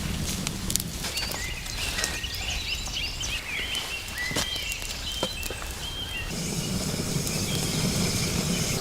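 A small bird calling in a run of short, high chirping notes for several seconds, over a steady low rumble of wind with a few scattered clicks.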